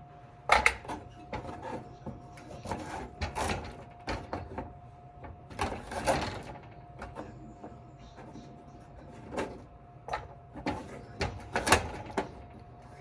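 Kitchen knife cutting raw carrots lengthwise on a cutting board: irregular crunching cuts and knocks of the blade on the board.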